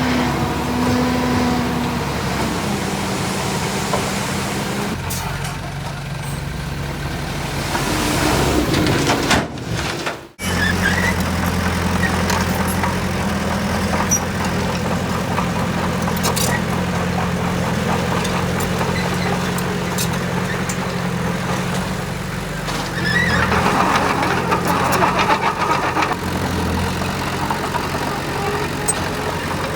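Engine of a heavy construction machine running steadily under work, with a brief sudden break about ten seconds in and a louder, noisier stretch about three-quarters of the way through.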